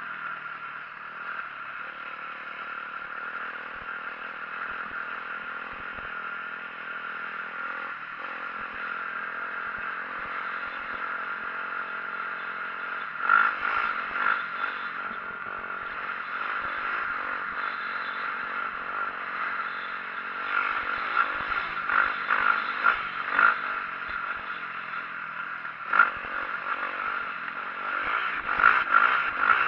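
2004 Yamaha YZ450F dirt bike's four-stroke single-cylinder engine running under way, its pitch stepping up and down with the throttle. Sharp clattering knocks and rattles come in about halfway through and grow thicker toward the end, as the bike and camera mount bang over rough trail.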